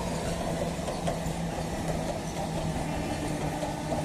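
Train near the station: a steady low mechanical hum over even background noise, with no sudden knocks or horn.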